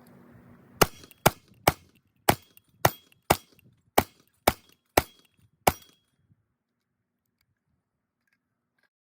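A rapid series of about a dozen sharp cracks, roughly two a second, stopping suddenly about six seconds in.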